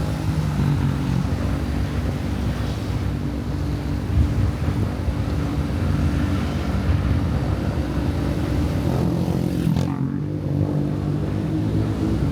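Motorcycle engine running steadily while riding, with road and wind noise; the hiss falls away briefly near the end.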